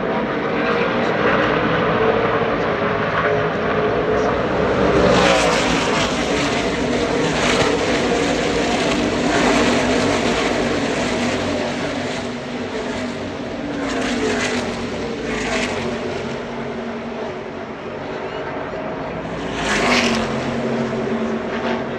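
Pack of NASCAR Craftsman Truck Series trucks' V8 engines running at full throttle as the field passes one after another, each pass-by swelling and dropping in pitch, the loudest near the end.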